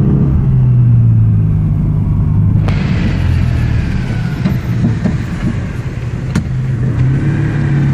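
A small old car's engine running steadily under way, heard from inside the cabin as a low hum. About three seconds in, a louder rush of road and wind noise suddenly joins it. The engine note sinks under that noise and comes back strongly near the end, with a single sharp click in between.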